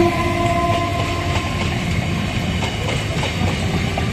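Electric multiple-unit local train running past close by, its wheels clattering over the rails. A steady whine runs under the wheel noise.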